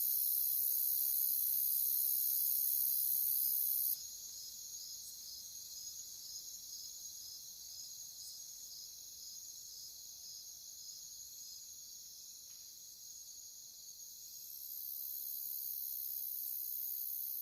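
Crickets chirping at night-chorus density: a very high, steady trill that cuts off suddenly about four seconds in and comes back near the end, over a lower, evenly pulsed chirping at about two chirps a second.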